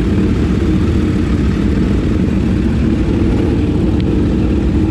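Motorcycle engine running steadily, with a short click about four seconds in.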